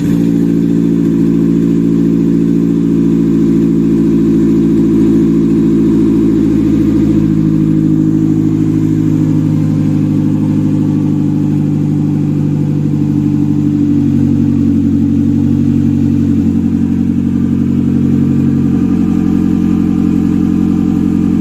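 Suzuki G16B 1.6-litre 16-valve four-cylinder engine, newly swapped into a Subaru Justy, idling steadily just after being started. Its idle speed drops slightly a few times as it settles.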